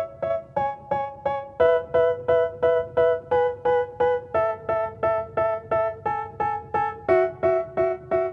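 Music: a piano-like keyboard playing evenly repeated chords, about three strikes a second, with the chord changing every second or so.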